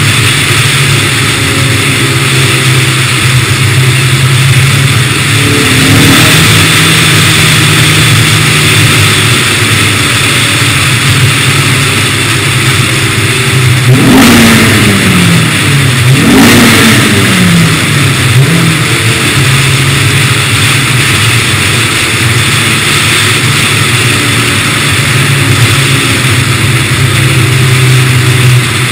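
Honda S2000's four-cylinder engine through a Comptech exhaust and K&N intake, run at a steady pace with road and air noise. About halfway through, the revs jump twice in quick succession and fall away each time.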